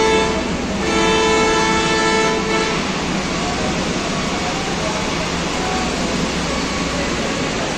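Freight train horn sounding a steady two-note chord, broken briefly about half a second in and cut off near the three-second mark. After that comes the steady rumble of hopper wagons rolling past on the rails.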